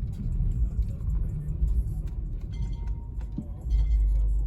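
Car's engine and road rumble heard inside the cabin, getting louder about three and a half seconds in.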